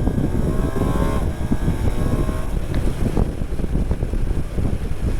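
BMW R 1250 GS boxer-twin motorcycle engine accelerating under load, its pitch climbing, dropping at a gear change about a second in, then climbing again. Wind noise buffets the microphone.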